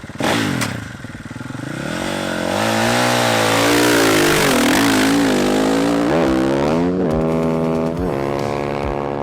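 Dirt bike engine revving hard, its pitch swinging up and down under a loud rushing hiss. It settles into a steadier, higher note near the end.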